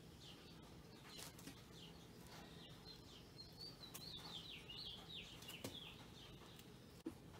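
Faint bird chirping: a run of quick, downward-sliding chirps, thickest in the middle, with a few soft clicks and a short knock near the end.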